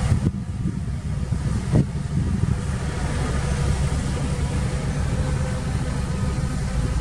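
Heavy diesel earthmoving machinery running steadily, with a single knock about two seconds in.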